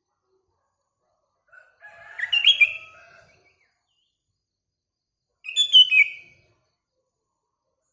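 Sooty-headed bulbul (kutilang) singing two short, bubbling whistled phrases, one about a second and a half in and one near the end, with silence between them.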